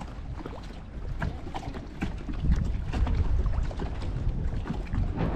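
Wind buffeting the GoPro's microphone as a low, uneven rumble that gusts louder about two seconds in.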